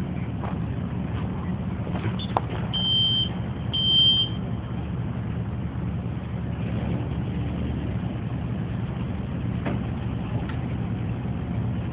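A vehicle engine idling with a steady low hum, and two short high-pitched electronic beeps about three and four seconds in.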